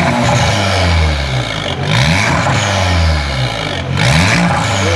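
Car engine revved several times, its pitch climbing and falling back with each blip of the throttle.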